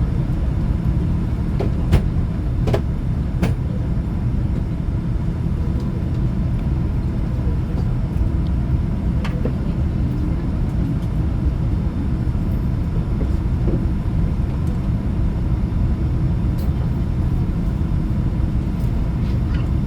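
Airliner cabin noise on the ground before takeoff: a steady low rumble and hum from the aircraft's engines and air systems, with a few light clicks in the cabin, the sharpest about two seconds in.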